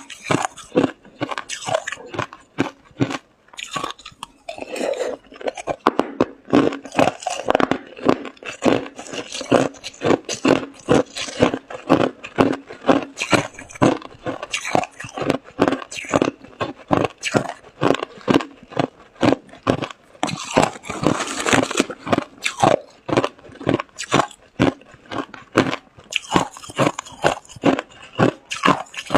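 A person crunching and chewing ice cubes close to the microphone, a steady run of sharp bites and crunches about two to three a second.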